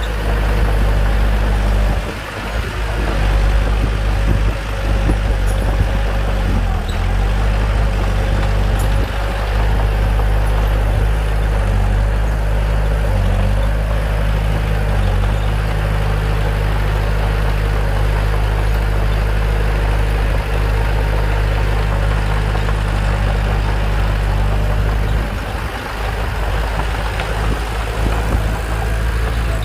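Bulldozer's diesel engine running steadily under load, with a deep, even drone that dips briefly twice.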